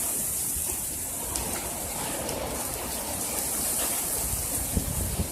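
Heavy rain mixed with hail falling, a steady hiss with scattered small sharp ticks of hailstones striking.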